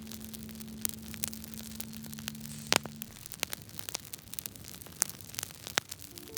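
Firewood burning with irregular sharp crackles and pops, one louder pop a little before halfway. A low sustained note of soft background music fades out about halfway through.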